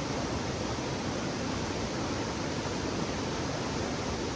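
Steady rushing of creek rapids, an even, unbroken water noise.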